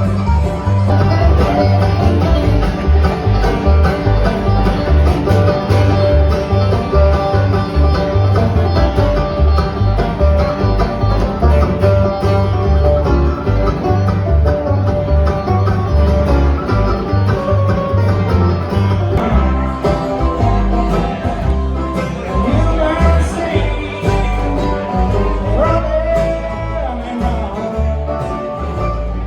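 Bluegrass band playing, with banjo and guitar prominent over a steady bass beat.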